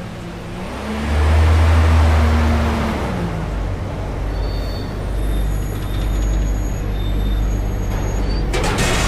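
Front-load garbage truck's diesel engine revving up about a second in, holding for two seconds, then dropping back to a steady low rumble, with thin high squeals in the middle. A short burst of hissing air near the end.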